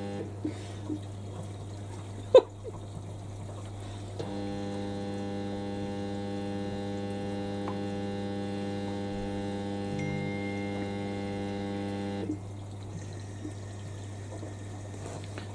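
Washing machines filling with water: a steady electric hum with water pouring into the drums. A louder humming tone of several pitches comes in about four seconds in and stops about twelve seconds in, and there is a single sharp click a couple of seconds in.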